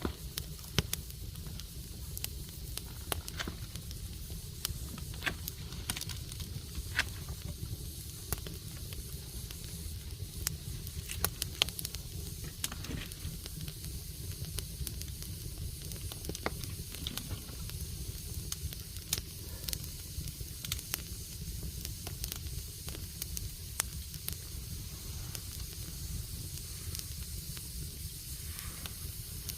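Wood fire crackling, with many irregular sharp pops and a steady hiss, over a steady low rumble.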